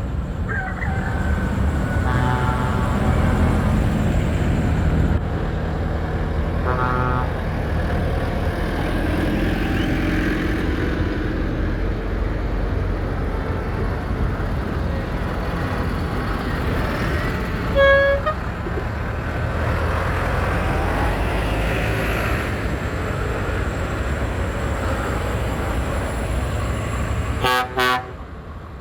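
Diesel engines of vintage tractors running as they drive past in a convoy, with horns tooted several times; the loudest toot comes about 18 seconds in, and a quick string of short beeps near the end.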